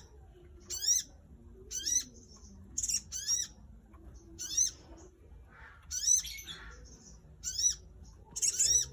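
A small bird, known locally in Java as cici jantung or sogon, repeating a short, sharp, high-pitched call about once a second, each a quick rising-then-falling note, sometimes given twice in quick succession.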